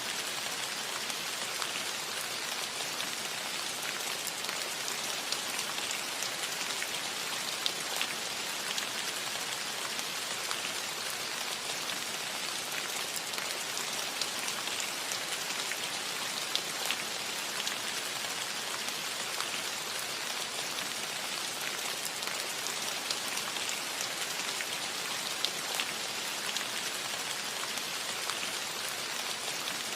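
Steady rain falling on a roof, an even hiss with many individual drops ticking throughout.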